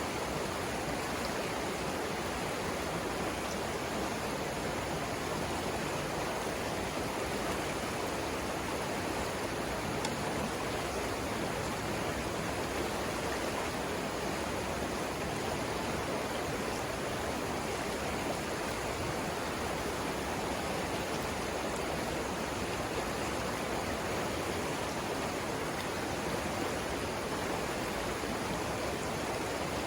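Savannah River water rushing over rapids: a steady, even wash of flowing water.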